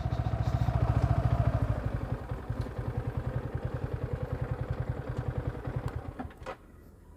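Motorcycle engine idling with an even, rapid thudding pulse that grows quieter and stops about six seconds in.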